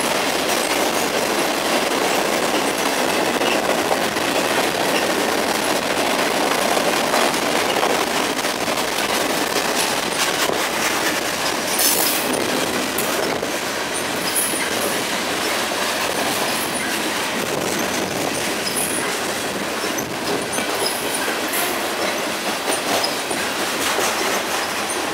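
CSX freight train's cars rolling past: a steady noise of steel wheels on rail with clickety-clack over the rail joints. Short, high wheel squeaks come in during the second half.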